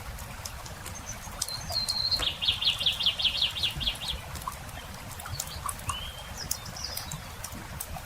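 Campfire crackling with a songbird singing over it: a short high note, then a fast trill of about a dozen repeated notes lasting nearly two seconds, followed a little later by a few scattered chirps.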